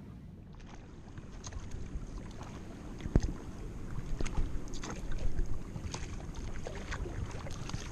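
Oars dipping and splashing as a dinghy is rowed, with scattered sharp splashes and knocks over a low wind rumble on the microphone.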